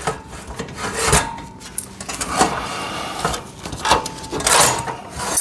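Steel tabletop of a foldable welding table being slid and set onto its metal frame: repeated scraping and about half a dozen sharp metal knocks.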